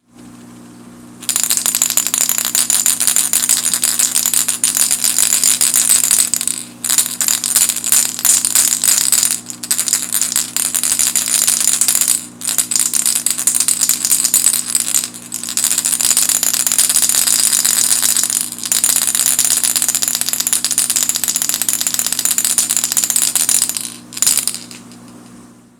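Rattles inside an O.S.P. Rattlin Blitz Max crankbait clattering as the lure is shaken, in long fast runs with brief breaks every few seconds. The rattle has a distinctive sound.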